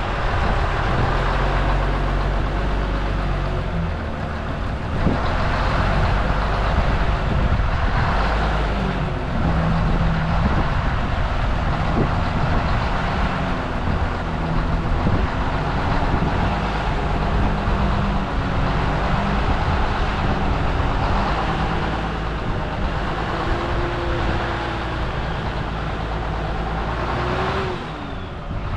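Vehicle engine running, its pitch stepping up and down as it is driven, with a few sharp knocks.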